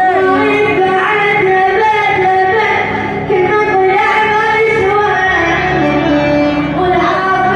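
Arabic song: a solo voice singing an ornamented melody with gliding, bending notes over a steady low accompaniment.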